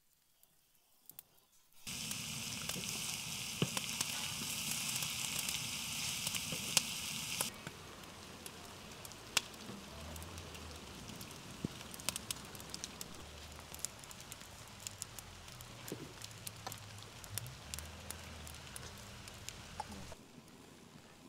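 Chopped celery frying in hot oil in a pot over a wood fire: after about two seconds of near quiet, a loud sizzle with many small spattering pops. Several seconds later it drops to a softer hiss with scattered crackles and pops from the fire.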